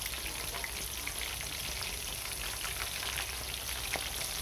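Blocks of tofu deep-frying in a pan of hot oil: a steady sizzle with many small scattered crackles and pops, the tofu already golden.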